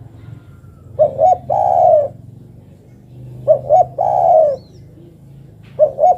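Female spotted dove (derkuku) calling to a male: a repeated coo phrase of two short notes followed by a longer falling note, about every two and a half seconds. There are two full phrases, and a third begins near the end.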